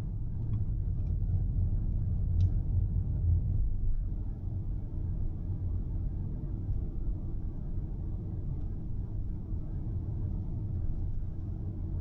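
Steady low road rumble inside a moving car's cabin, with one short click about two seconds in.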